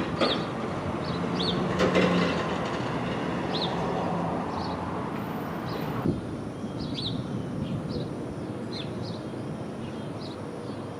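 Storm wind rushing steadily, easing off about six seconds in, with a bird chirping again and again over it.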